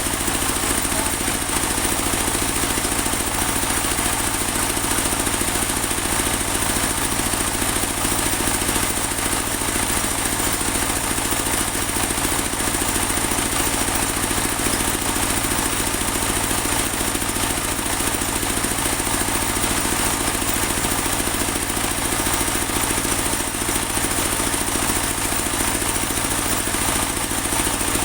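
Engine-driven portable bandsaw mill running steadily, sawing through a large teak log, with a steady high hiss from the blade over the engine hum.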